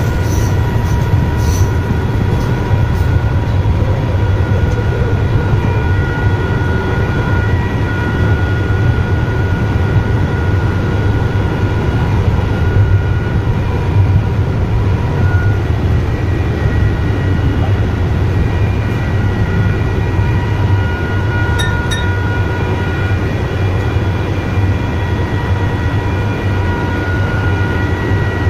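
Electric suburban train running at speed, heard from the driver's cab: a steady low rumble with several steady high tones over it. Two sharp clicks a little past the middle.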